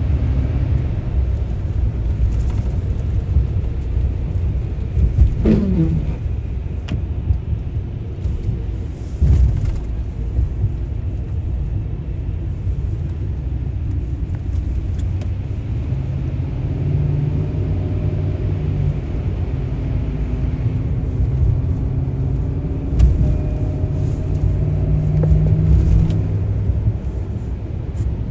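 Steady low rumble of a car driving along a road, engine and tyre noise together, with a brief falling tone about five seconds in and a low engine hum coming up in the second half.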